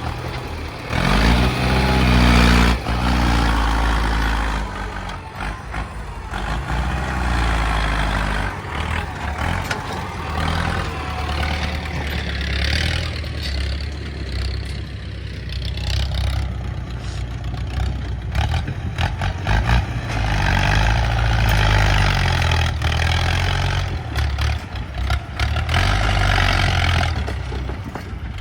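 Heavy diesel engine of earthmoving machinery running and changing speed under load, with stretches of hiss and occasional knocks.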